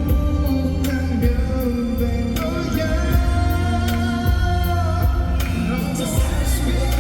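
Male pop singer singing a slow K-pop song live over its backing track, with held vocal notes over a steady bass line and a regular drum beat.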